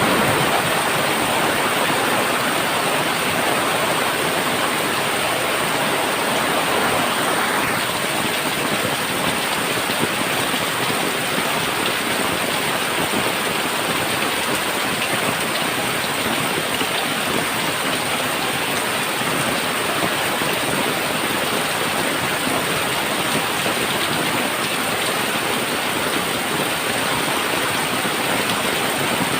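Heavy monsoon rain falling on a tin roof: a steady, dense hiss of drops.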